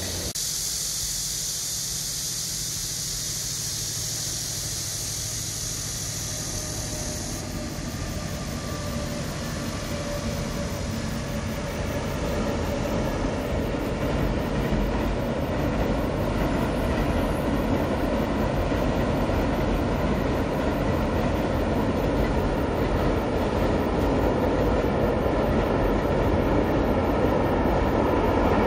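Container freight train running across a long railway bridge: a broad rumble of wheels on rails that builds from a few seconds in and grows steadily louder as the train draws near. A steady high hiss sits over the first several seconds.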